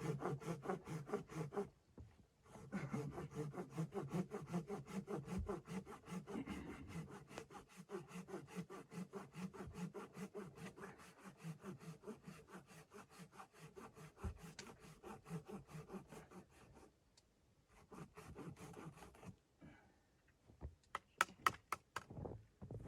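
Rapid, even rubbing or scraping strokes that run on with two short pauses, then stop, followed by a few sharp clicks near the end.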